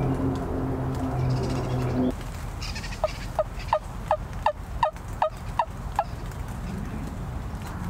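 A series of about nine turkey yelps, short falling notes at about three a second. Before them, a low steady hum stops abruptly about two seconds in.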